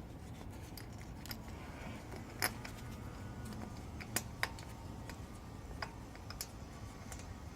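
Scattered light metallic clicks and taps, a few sharper than the rest, from hand tools and bolts being handled while bolts are refitted on a motorcycle engine, over a steady low hum.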